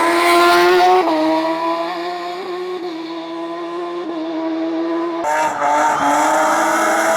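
Competition car engine at high revs on a hillclimb run, loud for the first second, then cutting to a quieter, near-steady note before jumping back to full loudness about five seconds in.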